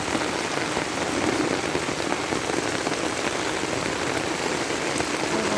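Heavy rain pouring down steadily, a dense, even hiss with scattered drop ticks.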